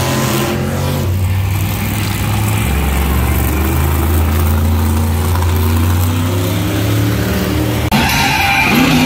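Monster truck engine running with a deep, steady drone that steps up in pitch about a second in and again a little later, then holds. Near the end the sound changes suddenly to something brighter and busier.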